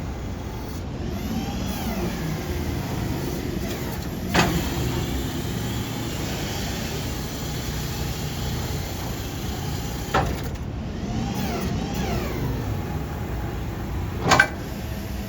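The 6.7L Power Stroke V8 turbo-diesel of a Ford F550 running with a steady low rumble, with several whines that rise and fall in pitch over about a second each. Three sharp knocks come about four, ten and fourteen seconds in.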